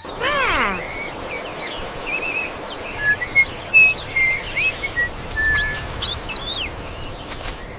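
Small birds chirping in scattered short calls over a steady outdoor background hiss, a countryside ambience bed. A short falling swoop sounds right at the start.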